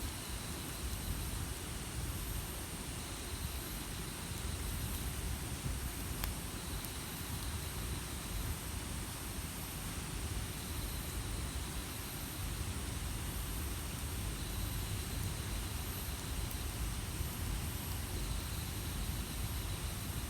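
Steady outdoor hiss with a low rumble, faint high chirps repeating about once a second, and a single click about six seconds in.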